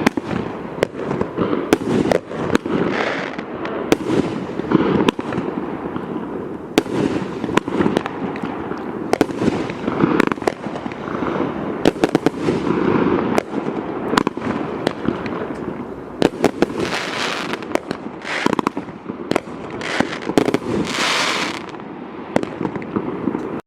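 A 500-gram consumer fireworks cake (Boom Wow's The Victor) firing its shots: sharp bangs, often one to several a second, over a continuous rush of overlapping bursts that runs throughout.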